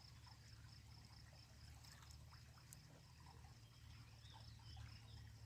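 Faint, regular pulsing chirps of crickets, over a steady low hum.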